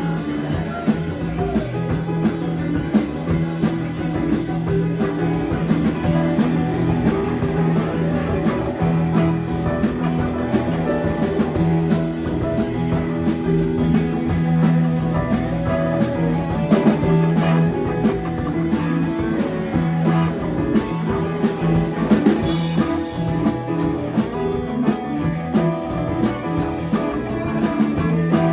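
Live band playing a guitar-led blues-rock instrumental passage with a steady drum beat.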